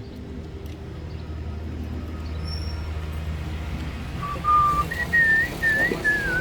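A person whistling a tune: a string of short held and gliding notes that starts about four seconds in, over a steady low hum.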